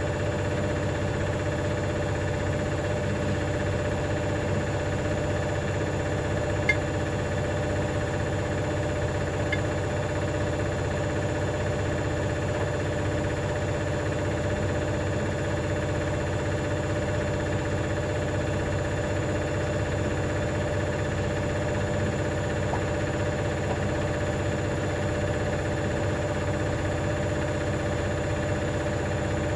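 Hoover DynamicNext washing machine running steadily, its motor and drum keeping an even pitch with a constant hum and rumble, typical of a spin held at one speed. Two short sharp clicks come about seven and ten seconds in.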